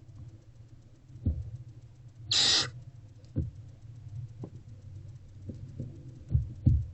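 Barn owlet giving one short hissing screech about two seconds in, with several low thumps of movement inside the wooden nest box.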